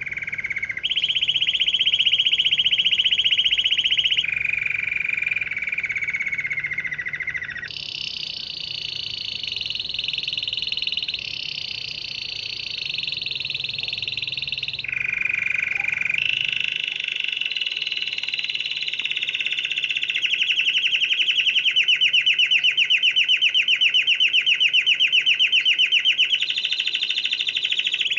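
Canary singing a long, continuous song of rapid trills, each held for a few seconds before jumping to a new pitch; in the second half it settles into a clearly pulsing trill.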